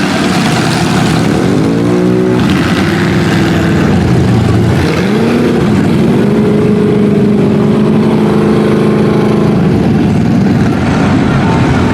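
Off-road truck engine revving hard: it climbs about two seconds in, falls back, then climbs again and holds high revs for several seconds before easing off near the end, over a steady rushing noise.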